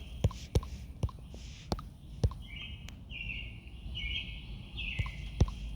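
Scattered sharp clicks at an irregular pace, from someone working a computer, over a steady low hum. In the second half a high, raspy chirping comes in short spells, several times in a row.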